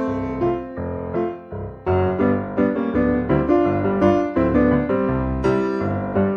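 Piano music: struck chords over a moving bass line in a steady rhythm, each note ringing and fading.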